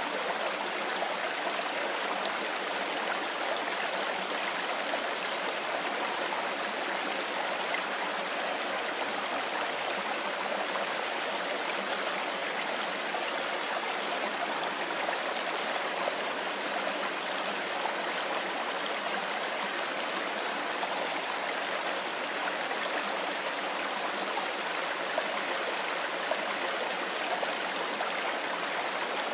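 Mountain river or stream flowing over stones: a steady, even rush of water.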